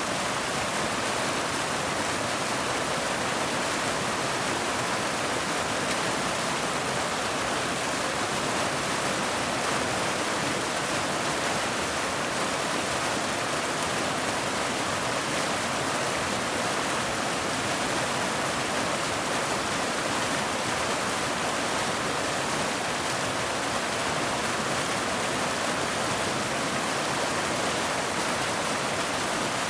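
Steady rain, an even, unchanging hiss with no single drops or thunder standing out.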